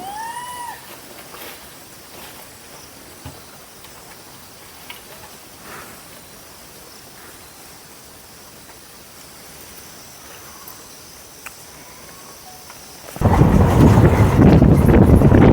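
Quiet forest ambience with a faint steady high drone and a single bird call that rises and falls in pitch right at the start. About thirteen seconds in, loud wind buffeting on the microphone abruptly takes over.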